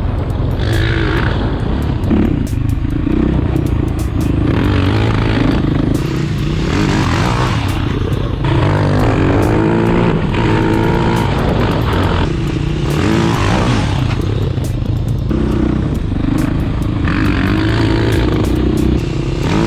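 450cc single-cylinder four-stroke off-road engine revving up and down under riding load, with several short let-offs between pulls.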